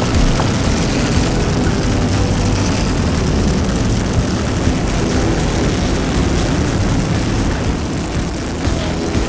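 Racing car engine running steadily, a loud low-pitched engine sound that holds throughout.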